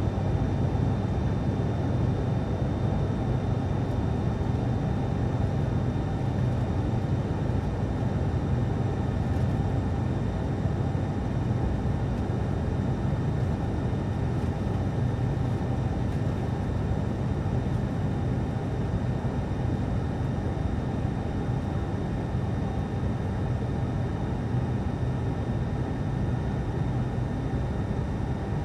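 Steady cabin drone of an ATR turboprop airliner in flight: a low engine-and-airflow hum with faint steady high tones above it.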